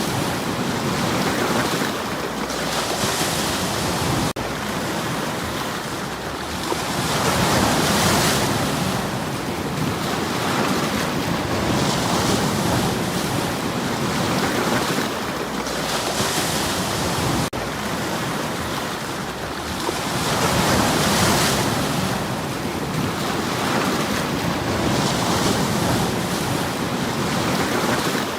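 Sea waves breaking and washing over shoreline stones, the surf swelling and falling back every four to five seconds.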